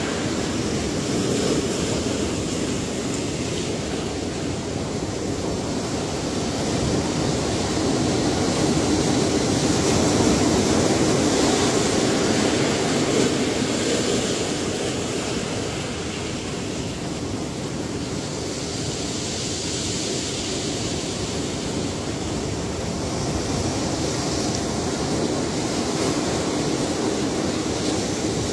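Ocean waves washing onto a shore as a continuous roar of surf, swelling to a peak about ten seconds in and then easing off.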